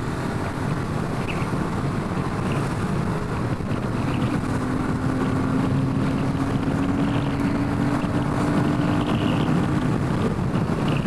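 Royal Enfield Himalayan 450's single-cylinder engine running while under way, its steady tone rising slowly in pitch through the middle of the clip, under heavy wind noise on the microphone.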